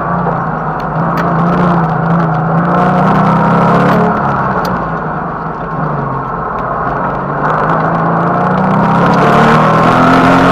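Porsche Cayman S's 3.4-litre flat-six engine pulling hard during an autocross run, heard from inside the cabin. The revs climb, ease off about halfway through, then build again near the end.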